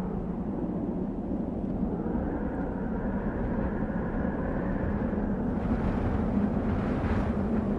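Desert wind blowing steadily with a low rumble, swelling into a stronger, hissing gust from about five and a half seconds in until near the end.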